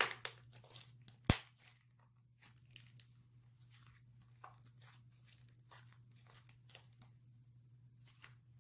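Fingers squeezing and rubbing a foam squishy toy against a hard surface: a scattered run of faint crackles and scratches, with one sharp click about a second in, over a low steady hum.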